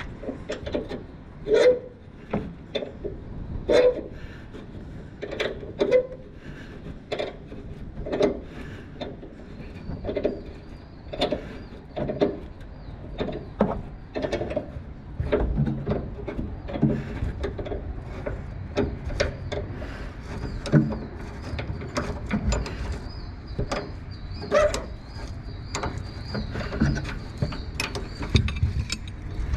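Repeated hammer blows on metal, irregular, about one every second or two, some with a brief ringing note, as a stuck part is driven out while replacing a pickup truck's rear shock absorber.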